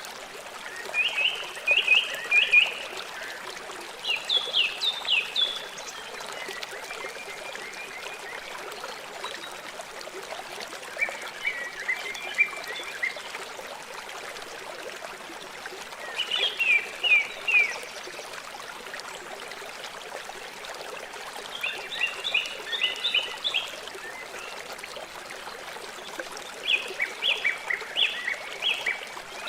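River water flowing steadily, with a bird singing short phrases of quick high notes over it, about every four to five seconds.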